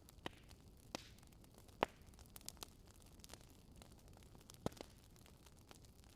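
Wood fire crackling in a fireplace: scattered sharp pops and snaps over a faint low hiss, the loudest pop a little under two seconds in.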